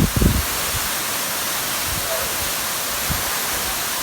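Steady rushing noise of a waterfall, with a few low bumps in the first half second.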